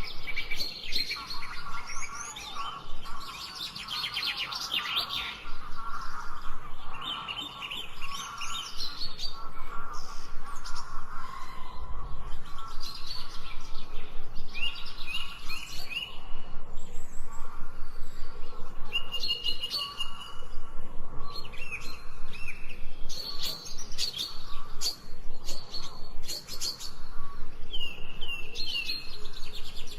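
A chorus of several wild birds singing and chirping, with short calls and quick repeated-note trills overlapping throughout.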